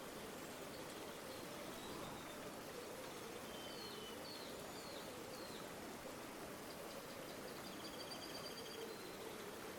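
River water flowing steadily. Faint bird calls come over it: a few short chirps about halfway through and a rapid trill near the end.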